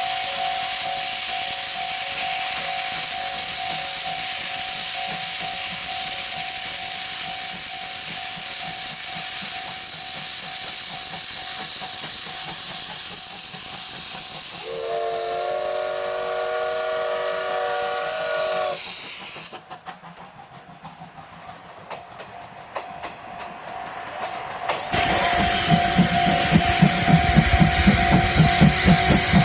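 Steam locomotive C12 66, a C12-class tank engine, hissing steam loudly and steadily. About halfway through it gives one whistle blast of about four seconds. After a short quieter stretch, the hiss returns with rapid rhythmic beats as the train runs.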